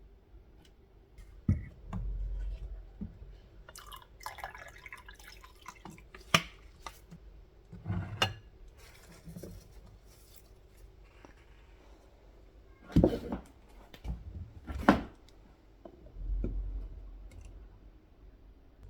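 Scattered knocks, clicks and clinks of objects being handled and set down, with a few brief rustles; the sharpest knocks come about a third of the way in and twice near three-quarters.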